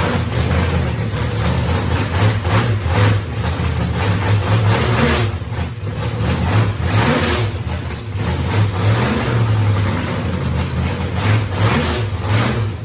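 Chevrolet Malibu race car's engine running loud and unevenly, its idle rising and falling with short revs, on its first start-up since the build.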